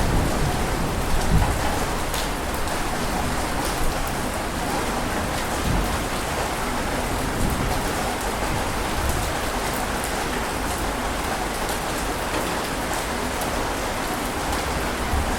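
Ocean surf washing on a beach: a steady, unbroken rush of water noise with faint crackling fizz.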